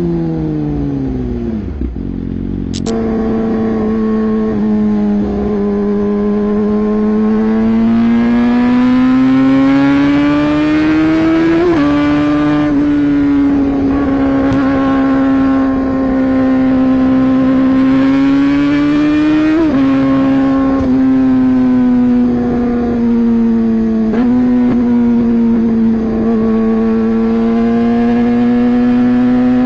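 Hero Xpulse 200 4V motorcycle engine running under way. Its pitch falls away at first, picks up again about three seconds in, then climbs slowly and settles, with small sudden changes in pitch a few times.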